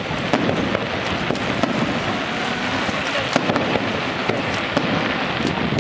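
Fireworks going off: many sharp pops and cracks in quick, irregular succession over a dense, steady noise.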